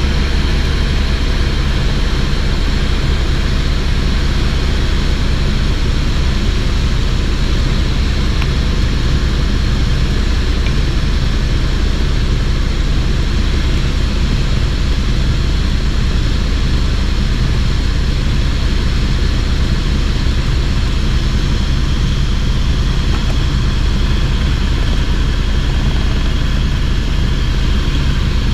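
Helicopter in flight: a loud, steady mix of engine and rotor noise, heaviest in the low end, with no change through the stretch.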